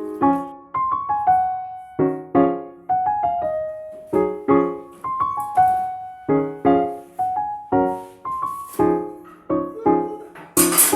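Background piano music: gentle chords and single notes, each struck and left to fade. A brief hiss of noise comes near the end.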